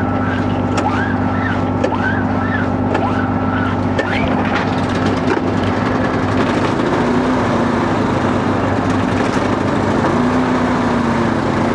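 Steady engine noise as a small portable generator, choke on, is restarted after stalling, and by the end it is running.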